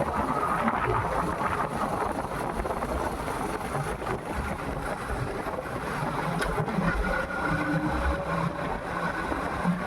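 Motorcycle running on the move, with wind noise over the microphone; a faint whine rises and falls in the second half.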